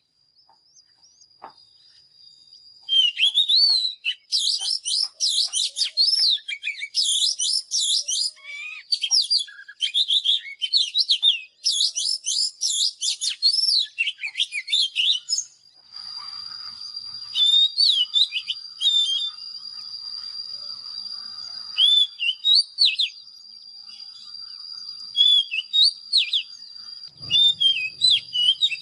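Oriental magpie-robin singing: quick phrases of varied, sweeping whistled notes, densest in the first half and in looser bursts later. A thin, steady high tone runs beneath the song in the second half.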